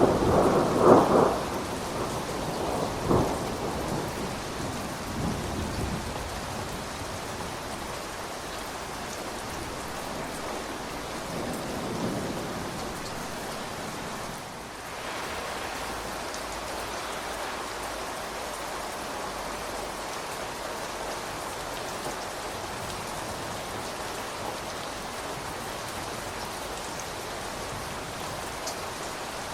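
Steady rain falling, with a rolling thunder rumble in the first few seconds that peaks twice and dies away, leaving the rain alone.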